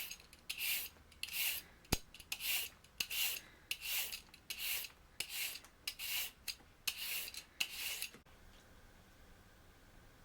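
Rhythmic rasping, scraping strokes of kitchen food preparation, about one and a half a second, stopping suddenly about eight seconds in. A single sharp click sounds about two seconds in.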